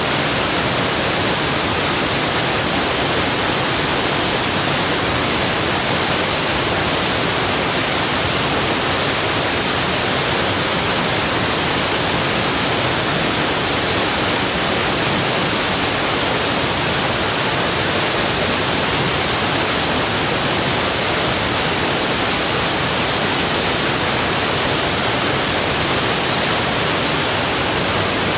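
Steady rush of flowing water, an even hiss heavy in the highs that never changes in level.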